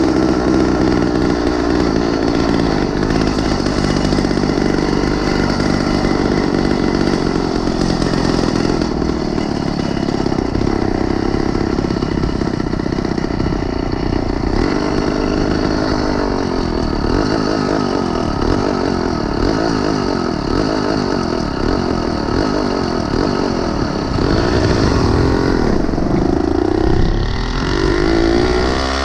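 Small engine of a motorized 20-inch bicycle running while riding, its pitch rising and falling with the throttle several times.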